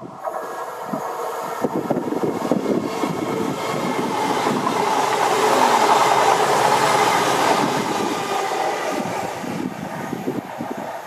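A CrossCountry Voyager diesel multiple unit passing through without stopping. Its engine and wheel noise swells to a peak about halfway through and fades away again, with wheels clattering on the rails.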